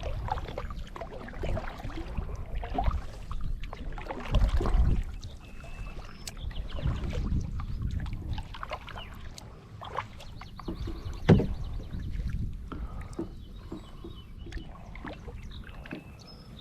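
Kayak paddle strokes splashing and dripping in the water, with a sharp knock about two thirds of the way through.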